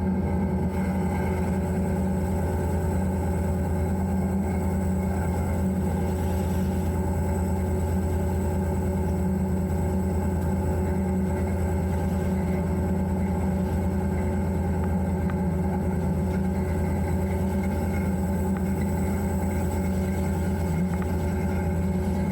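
EMD diesel locomotive's engine running steadily, heard from inside the cab as a constant low drone.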